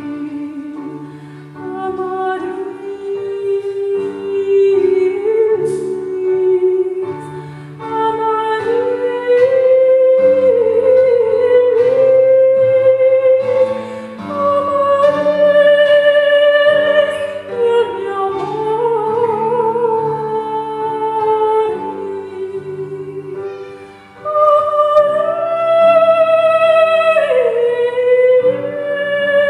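Lyric, operatic-style solo singing with long held notes and vibrato, over sustained instrumental accompaniment.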